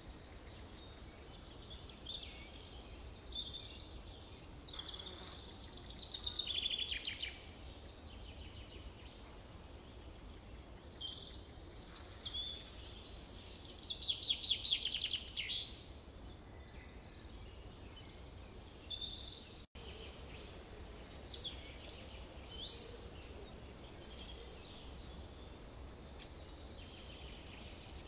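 Forest birdsong: several birds calling and chirping, with two louder rapid trills about five seconds and thirteen seconds in, over a steady low rumble. The sound drops out for an instant about two-thirds of the way through.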